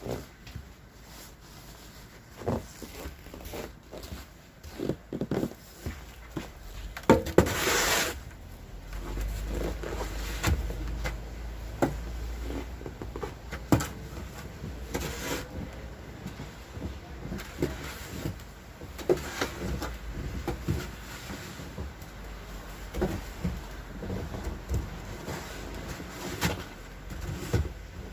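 Someone working through deep snow: irregular crunches, scrapes and knocks of snow being trodden and shovelled, with one louder rushing scrape about seven seconds in and a low rumble from about nine seconds on.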